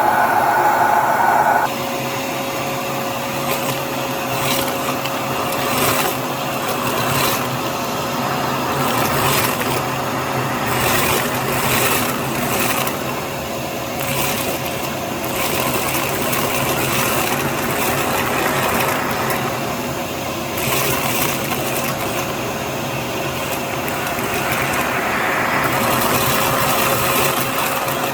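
Hyper Tough vacuum running with a steady whine over the noise of the suction. A louder, higher hum stops about two seconds in. Irregular bursts of clattering come through, typical of small beads being sucked up the nozzle.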